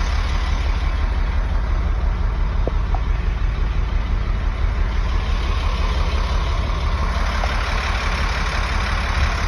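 International tow truck's engine running steadily, a low even rumble heard from inside the cab.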